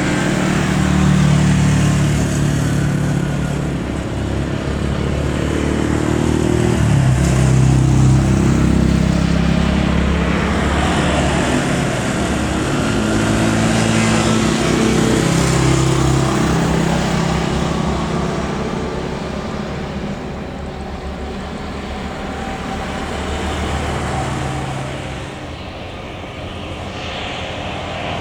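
Jet airliner passing close by, a loud continuous engine rumble with a steady low hum; it stays strong for the first half and slowly eases off after that.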